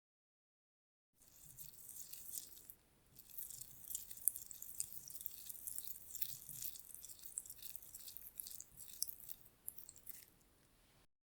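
Close-miked gritty crackling and rubbing of a granular face scrub being worked by hand, starting about a second in, with a brief lull near three seconds and stopping near the end.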